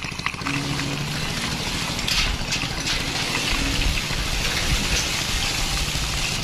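A toy vehicle being pushed along by hand: its plastic wheels rolling over the surface make a continuous rumbling scrape with a few rattling clicks.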